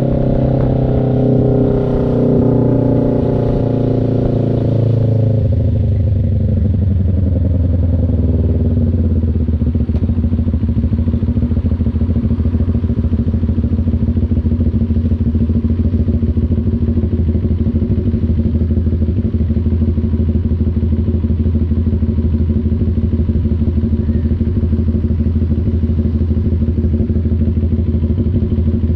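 CF Moto NK400's two-cylinder engine coming down from higher revs over the first five seconds or so, then idling steadily.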